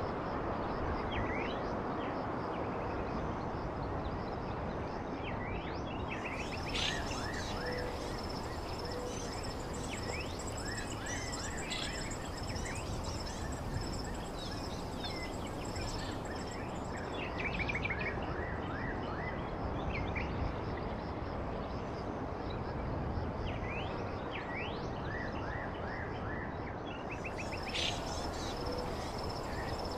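Many small birds chirping in short, quick-falling notes over a steady background hiss. A high steady trill joins in for a long stretch starting about six seconds in and again near the end.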